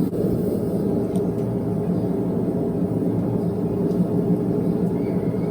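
A forge running steadily, its fire and air making an even, unbroken low rushing noise while a blade heats for hardening.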